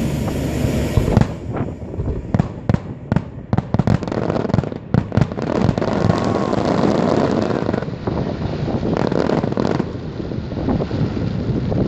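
Fireworks display: a rapid, irregular series of sharp bangs and crackles, thickening into a dense continuous crackle about halfway through, with more bangs near the end.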